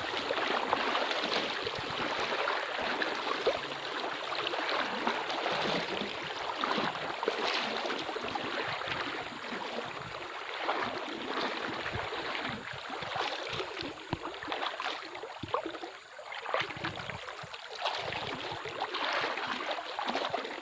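Water sloshing and splashing as a person wades through deep floodwater, with irregular swishes as the legs push through.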